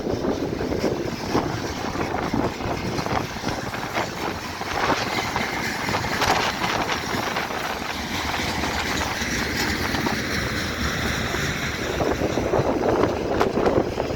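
Train passing, a steady noise of wheels on rails, with wind buffeting the microphone.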